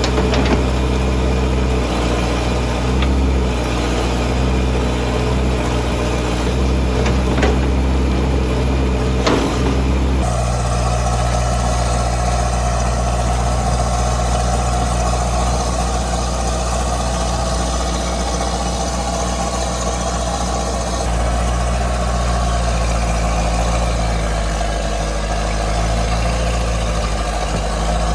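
Hitachi hydraulic excavator's diesel engine running steadily, the machine just brought back into service after being buried in a debris flow. A couple of sharp knocks come just before the sound changes abruptly about ten seconds in.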